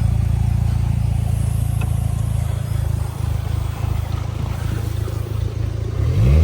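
Boat motor idling steadily, then revving up with a rising pitch near the end as the throttle is opened.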